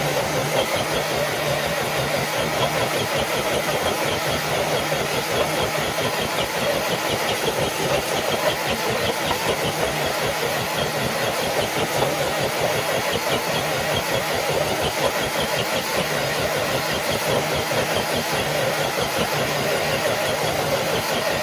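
Electric motor and geared drivetrain of a scale RC crawler truck running steadily under load while it drags a weighted pull sled, with a fast, even pulsing texture.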